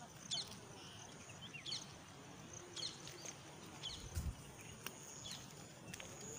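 A bird repeating a short high chirp about once a second, faint over quiet open-air background noise, with a soft low thump about four seconds in.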